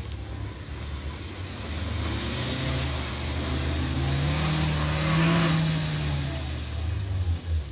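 A Daihatsu Xenia MPV's engine revving under load as it climbs a steep dirt slope. The engine note rises for a few seconds to a peak about five seconds in, then falls away, with a hiss over it.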